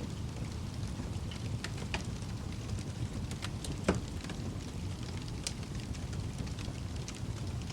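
Wood fire crackling in a fireplace: a steady low rumble of burning with scattered sharp pops, the loudest about four seconds in.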